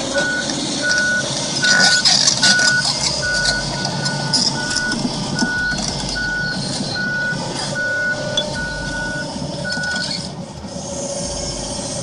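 Heavy machine's reversing alarm beeping evenly, about two beeps a second, over engine and work noise, with a burst of clattering about two seconds in; the beeps stop near the end.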